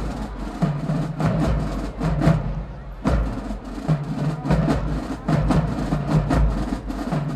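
Marching band playing a percussion-driven tune for a dance routine: a steady beat of drum strikes over held low notes that come in phrases, with a brief drop about two and a half seconds in.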